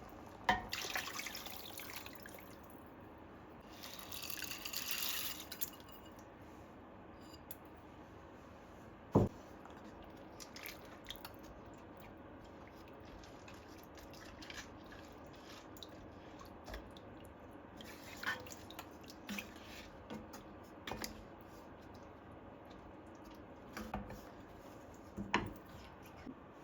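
Quiet kitchen handling sounds: water runs briefly about four seconds in, one sharp knock comes about nine seconds in, and light taps and clicks are scattered through the rest.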